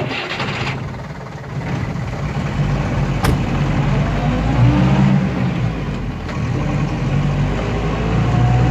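Yellow Ambassador taxi's engine running as the car pulls away, with street traffic noise around it. A single door clunk about three seconds in.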